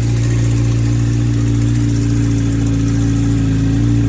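Kawasaki H2 SX's supercharged inline-four idling steadily and noisily just after being started on fresh oil.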